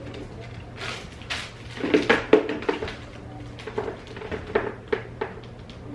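Irregular light knocks, clatters and rustles of unpacking by hand: plastic parts and packaging of a foot spa being picked up and set down, about a dozen in a few seconds, over a low steady hum.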